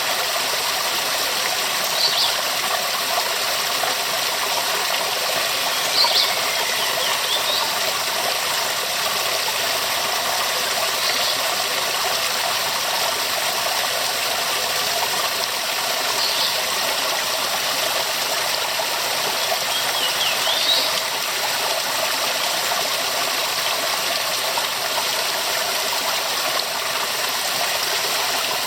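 Waterfall rushing in a steady, even roar of falling water, with a few faint short high chirps now and then over it.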